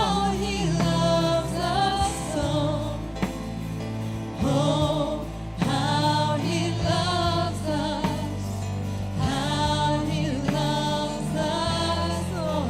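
Gospel worship song: sung phrases with vibrato over a band's steady bass.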